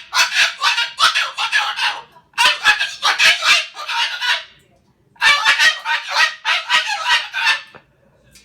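Moluccan cockatoo screaming in rapid runs of harsh squawks, three bouts with short breaks, the last dying away near the end: the calls of an angry, agitated cockatoo.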